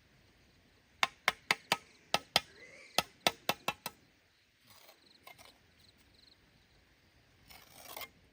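About a dozen sharp, hard knocks in quick succession, roughly four a second, like hammer blows. A short rough rustling noise follows near the end.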